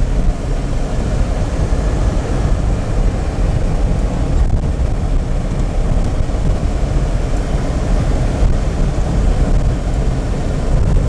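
Car on the move: steady engine and road rumble, heard from inside the car.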